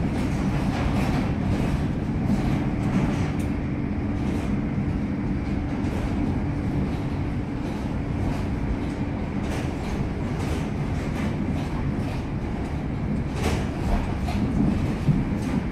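Inside a moving Siemens Nexas electric train carriage: a steady low rumble from the wheels and running gear, with a faint hum that fades about halfway through. Scattered clicks and knocks come from the wheels and the carriage.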